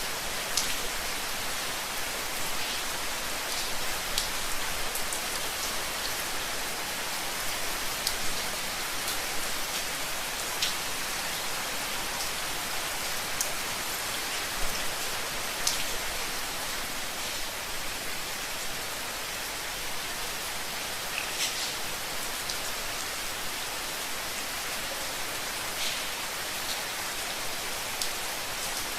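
Steady rain falling on a hard surface: an even hiss with scattered distinct drop ticks.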